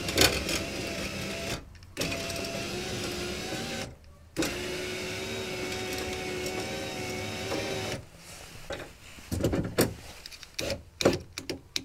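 Car power window motor and regulator in an open door driving the glass up, a steady hum in three runs split by short pauses, the last and longest about three and a half seconds, as the newly connected window mechanism is tested. Clicks and knocks of handling the door follow.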